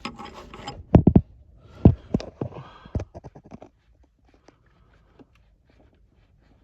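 Tesla suspension being worked after its control-arm floating bushing was lubricated: about six dull knocks and thumps with some faint rubbing in the first three seconds, with no squeak from the bushing.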